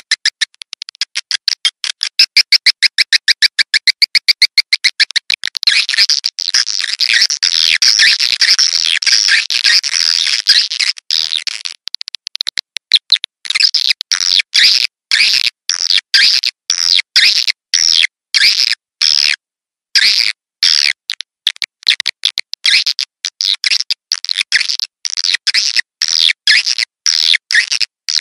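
Edible-nest swiftlet calls, a recorded 'suara tarik' lure sound of the kind played to draw swiftlets into nesting houses. It opens with a fast, even train of high clicking chirps, turns into a thick twittering chatter, and from about halfway breaks into short bursts of chirping with brief silent gaps.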